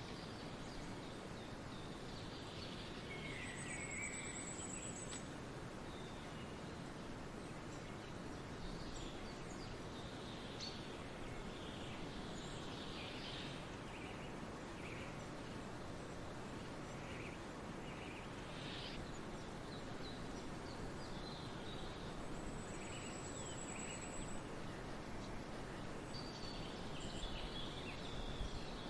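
Forest birdsong: several birds chirping and calling in scattered short phrases over a steady background hiss, with a high, thin trill heard twice, a few seconds in and again a little past the middle.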